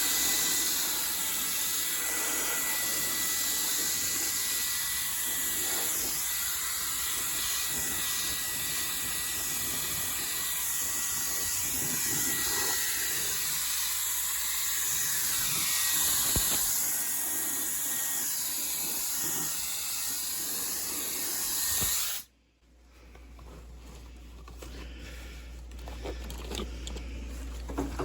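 Steady rushing hiss of moving air with a faint thin whistle, cutting off abruptly about 22 seconds in.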